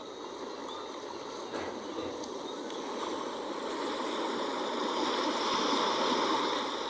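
Sea water rushing as waves wash in, a steady hiss of water that builds slowly over several seconds and eases off near the end.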